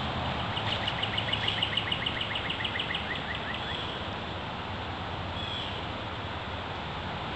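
A bird singing a fast trill of short repeated chirps, about eight a second, lasting about three seconds, over a steady background noise haze.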